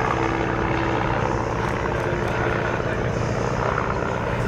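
Piston aero engine of a First World War-type propeller biplane in flight, a steady drone.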